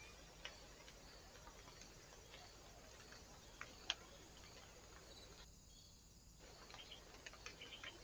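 Faint, short, high chirps and ticks from small birds at a woodland feeder, scattered over a low steady hiss. They come in quicker runs after a brief drop-out a little past halfway, where one trail-camera recording ends and the next begins.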